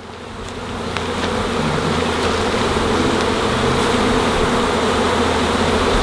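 Swarm of honeybees buzzing loudly all around, a dense steady hum of thousands of wings that swells over the first couple of seconds and then holds.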